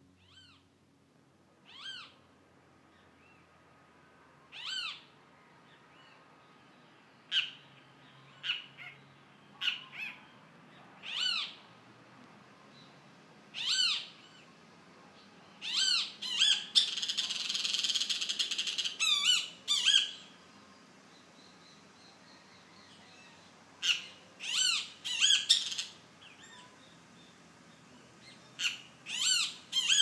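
A small perched bird calling over and over: short, mewing notes that bend up and down in pitch, often two or three close together, with a harsher, noisy chatter about midway.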